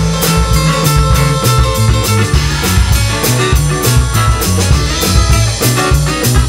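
Live folk-rock band playing an instrumental passage: acoustic and electric guitars over a bass line, with a drum kit keeping a steady beat.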